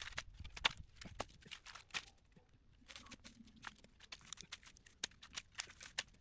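Brush and cut branches being dragged and pushed aside by hand, with many irregular twig snaps and crackles.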